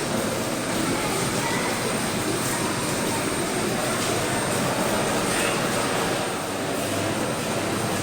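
A Beechcraft King Air C90GT's twin PT6A turboprop engines running with a steady rushing noise, mixed with rain, that holds even and unbroken.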